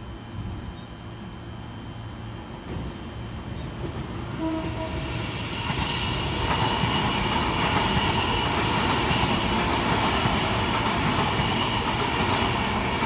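A train approaching and passing close by, its noise growing louder over the first several seconds and staying loud, with a fast, regular clatter of wheels over the rails setting in about two-thirds of the way through.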